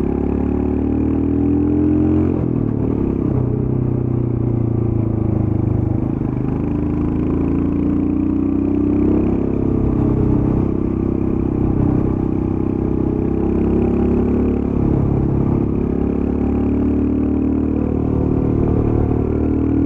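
Royal Enfield Scram 411's air-cooled 411 cc single-cylinder engine through its stock exhaust, riding at a brisk pace. The engine note rises and falls repeatedly as the throttle opens and closes.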